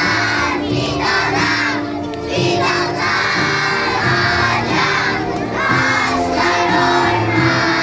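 A crowd of schoolchildren singing and shouting together over background music with steady held notes.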